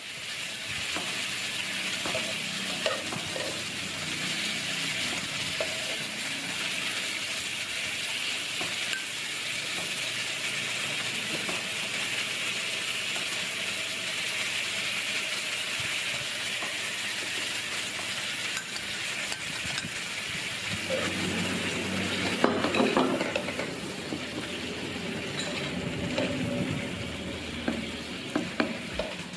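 Beef cubes and garlic sizzling in a frying pan with a steady hiss, stirred with a spatula that clinks and scrapes against the pan now and then. The scraping and knocking grow louder about two-thirds of the way through.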